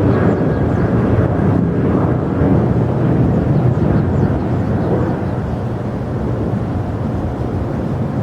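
Jet airliner engines, a loud steady rumble that eases off slightly in the second half.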